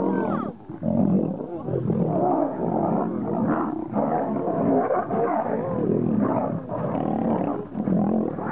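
Two male lions fighting, roaring and growling almost without pause as they grapple and wrestle.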